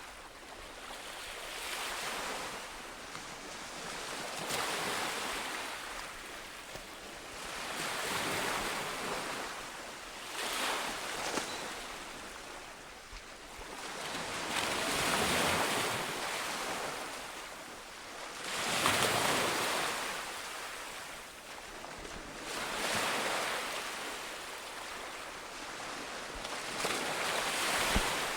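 Ocean waves breaking on a shore, each wash of surf swelling and fading away in a repeating rhythm every three to four seconds.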